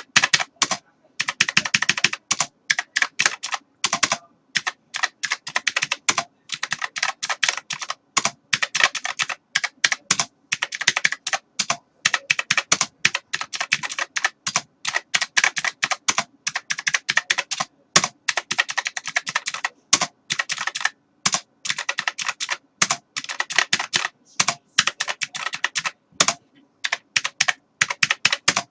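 Continuous fast typing on a computer keyboard, rapid key clicks in bursts with brief pauses between them.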